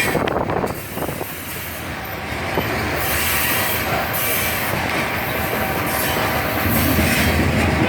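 Freight train rolling past, steel wheels running on the rails with a steady rumble and clatter and a faint high wheel squeal.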